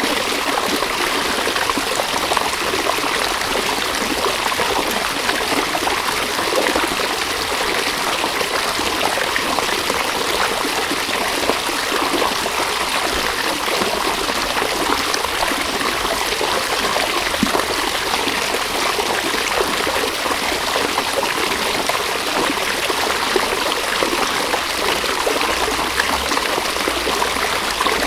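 River water running steadily: a continuous rush and babble of flowing water.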